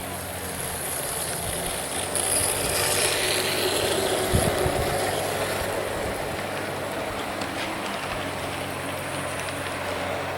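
G-scale model train running on garden track: a steady electric-motor hum with wheel-on-rail rumble, swelling about two seconds in.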